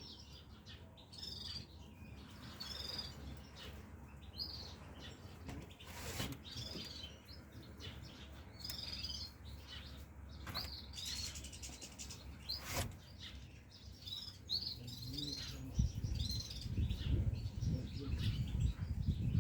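Small caged finches, goldfinches among them, chirping in many short high calls, with a few sharp clicks. A low rumbling noise, the loudest sound, comes in over the last few seconds.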